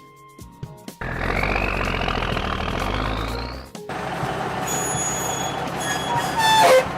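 Cartoon vehicle sound effects: about a second in, an engine starts and revs with a whine that rises for about three seconds, then gives way to a steadier engine noise with high beeping tones.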